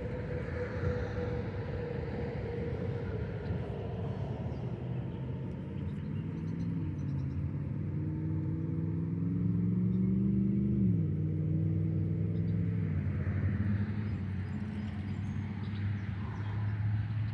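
An engine running over a steady low rumble, its pitch climbing for several seconds and then dropping sharply about two-thirds of the way through, as at a gear change, before fading out.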